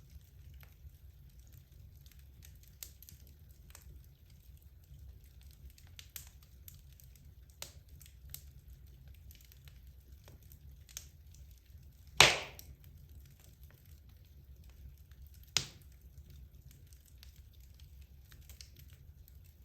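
Wood logs burning in a fireplace: scattered sharp crackles over a low rumble of the fire, with one loud pop about twelve seconds in and a smaller one a few seconds later.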